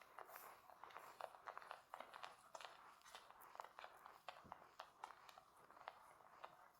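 Faint, close-miked clicks and crackles at an irregular rate, with a soft low thud about four and a half seconds in, typical of skincare products being handled and applied.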